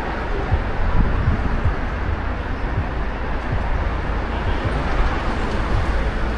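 Strong gale wind buffeting the microphone in a steady, gusty rumble, over the noise of traffic on a busy road.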